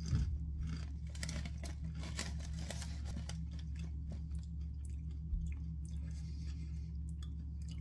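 A person chewing potato crisps, with irregular crunches that come thickest in the first three seconds and thin out after, over a steady low hum.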